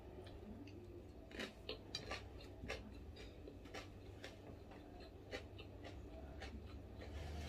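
Close-up chewing of food: faint, irregular crisp clicks and crunches, over a low steady hum.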